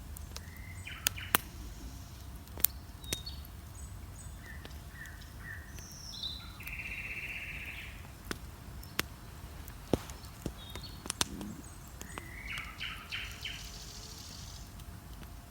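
Wood bonfire crackling with scattered sharp pops, while songbirds sing at dawn. Their calls include two longer trilled phrases, one about seven seconds in and one near the end.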